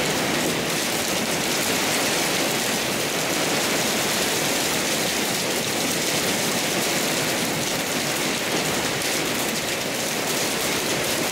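Heavy storm rain pouring down hard and steadily, a constant loud rushing hiss, with the trees whipping in strong wind.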